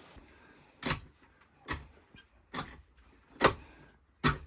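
Five sharp, evenly spaced chopping strikes, a little under a second apart, typical of a cleaver cutting through meat onto a chopping block.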